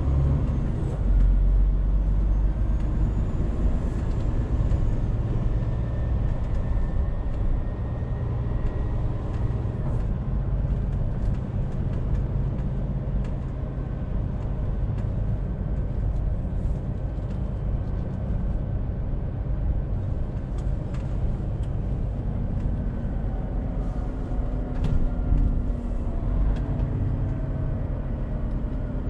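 Scania truck's engine running steadily with road and tyre noise while driving, with faint clicks here and there.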